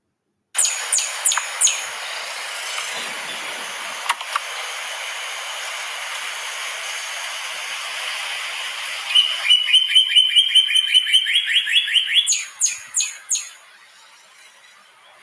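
A wild bird singing: a few sharp high notes, then past halfway a fast, even trill of about seven notes a second, closing with several high notes. A steady hiss of background noise runs under the first part and stops suddenly as the trill begins.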